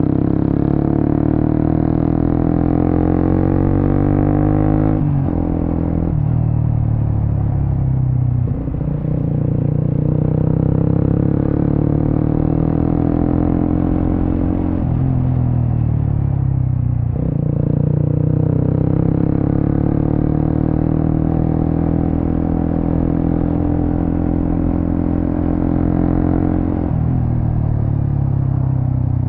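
Suzuki GSX-S150's single-cylinder engine running through an aftermarket Quinze big-volume exhaust while being ridden. Its pitch climbs steadily under throttle and drops sharply several times, as on gear changes or rolling off the throttle.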